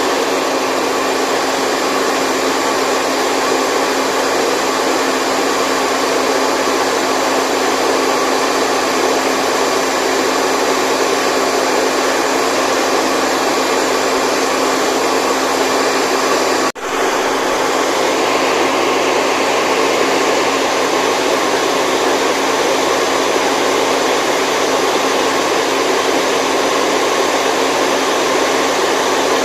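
Steady whooshing white noise for sleep, with faint steady hum tones running through it. The sound dips briefly about 17 seconds in.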